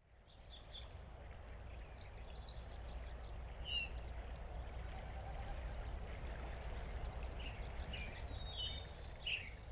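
Birdsong ambience: many quick chirps and a few short downward-slurred calls over a steady low rumble of outdoor background, fading in over the first second.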